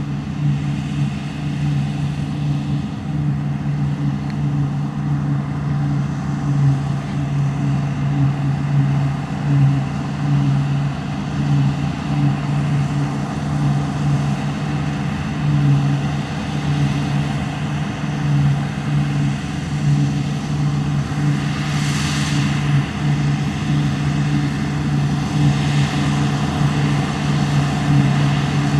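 Deutz-Fahr Topliner 4090 HTS combine harvester running steadily at working speed: a constant, even engine hum with machinery noise over it, and a hissing swell that rises and falls twice in the last third.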